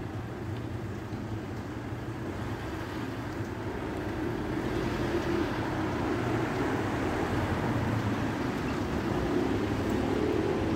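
A steady low mechanical rumble from a vehicle or engine, with a hum that comes up and grows louder from about halfway.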